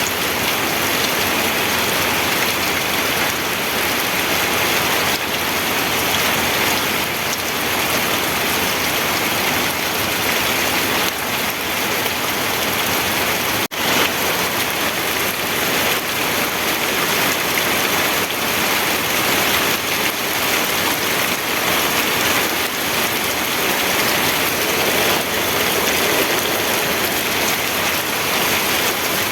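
Steady rain falling, an even, unbroken hiss, with a momentary dropout a little before halfway.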